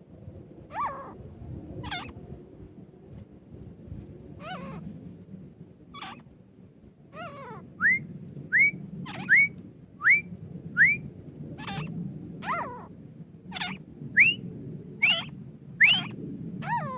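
Grey francolin calling: a few scattered calls at first, then from about halfway a fast, regular series of short, sharply rising whistled notes, one after another, over a steady low rumble.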